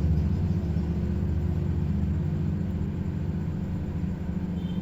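LG charcoal microwave oven running on microwave power at 900 W, a steady low hum from the magnetron and cooling fan in the last seconds of its cooking timer.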